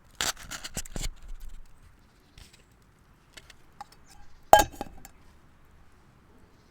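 Rustling handling sounds for about a second and a half, then a single sharp clink with a short ring about four and a half seconds in: small dishes or utensils being handled and set down.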